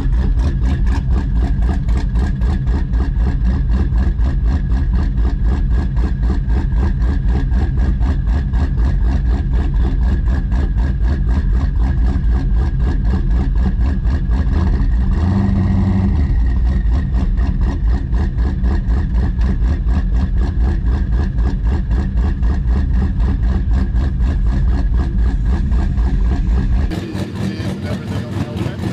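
Twin-turbo LS V8 of an HR Holden drag car idling from inside the cabin, a steady pulsing beat with a brief swell about halfway through. Near the end it cuts off into a quieter, different sound.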